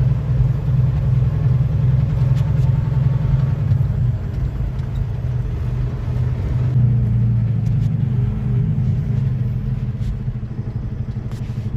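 Semi-truck's diesel engine running steadily as the rig drives along, a low drone whose note shifts about seven seconds in.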